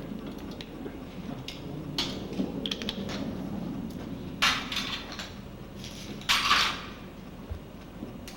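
Hand tools and metal parts clinking and rattling during engine work, with a few short rasping bursts, the loudest about two-thirds of the way in.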